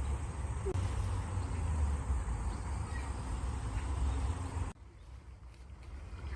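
Steady rush of flowing water with a deep rumble and a faint bird chirp or two. About three-quarters of the way through the sound drops out suddenly and fades back up over a second and a half.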